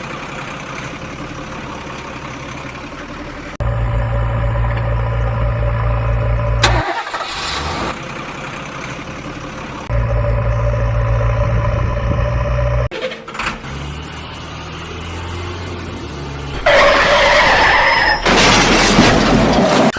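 Heavy diesel engine running in spliced stretches that cut in and out abruptly, with a steady low rumble that grows louder in two stretches, a whooshing sweep about seven seconds in, and a loud, harsher stretch near the end.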